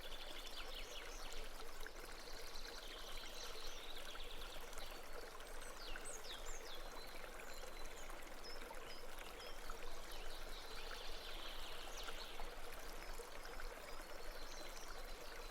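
Stream water trickling and flowing softly and steadily, with a few faint high chirps scattered over it.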